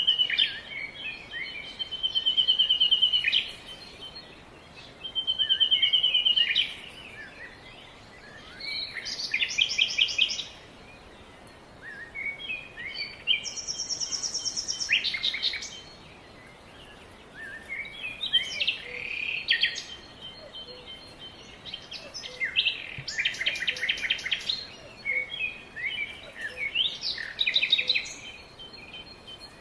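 Songbirds singing: phrases of fast trills and quick repeated chirps come every few seconds, each lasting a second or two, over a faint steady hiss.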